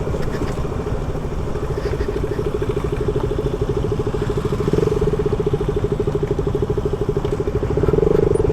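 Yamaha R15 V4's single-cylinder engine running steadily under way, its note growing a little louder about five seconds in and again near the end.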